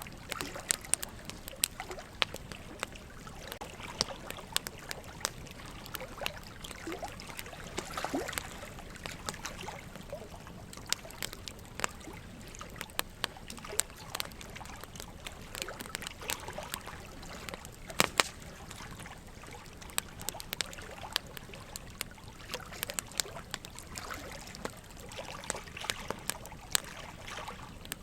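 Burning logs crackling in a fireplace, with frequent sharp irregular pops, over a steady trickle of running water.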